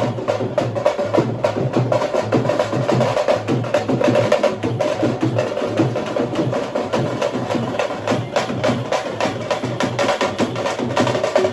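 Teenmaar drumming: a fast, dense, unbroken beat of many quick drum strokes, played on dappu frame drums.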